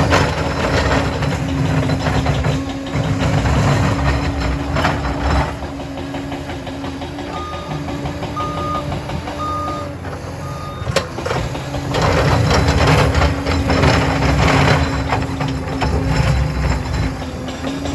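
Liebherr 746 crawler dozer's diesel engine working hard, easing off in the middle while its reversing alarm beeps four times, about once a second. A sharp knock follows the beeps, then the engine loads up again.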